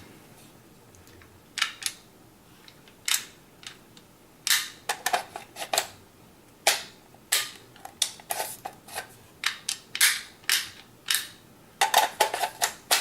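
Sharp clacks and knocks of a magazine being pushed up and worked into an airsoft AEG's tight magazine well, in irregular clusters. The tight fit is why it takes repeated pushing.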